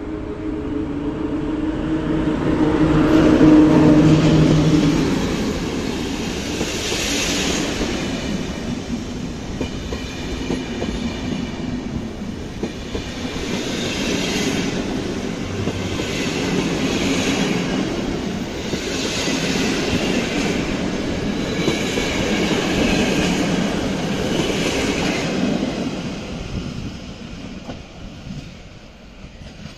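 EP07 electric locomotive passing and pulling a train of passenger carriages out of the station, its motor hum loudest a few seconds in. Then the carriages rolling by, wheels clattering over the rails, fading as the train draws away near the end.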